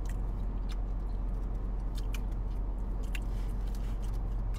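Chewing and biting into a soft croissant sandwich, with sharp wet mouth clicks about once a second, over a steady low hum of the car.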